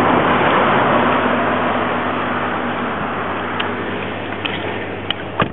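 Nissan GT-R's 3.8-litre twin-turbo V6 running at idle, heard inside the cabin: a steady low hum under a loud rushing noise that slowly eases. A sharp knock comes near the end.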